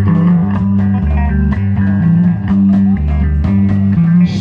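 Live band playing: a bass guitar line moving between notes under guitar, with a steady beat of sharp strokes.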